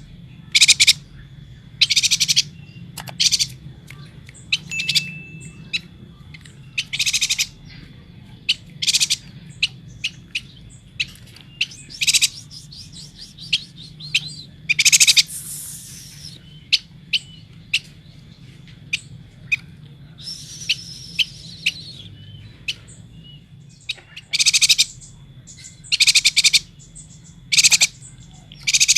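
Chestnut-crested yuhina calling: short, high chirps, some single and some in quick runs, repeated irregularly. A faint steady low hum runs underneath.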